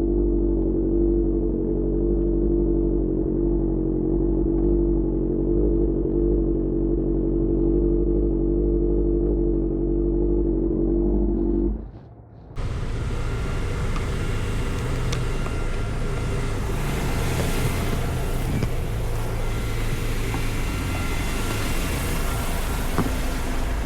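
Engine running at a steady, unchanging pitch, heard muffled. About twelve seconds in it breaks off suddenly, and a brighter, hissy mix of engine and road or wind noise follows.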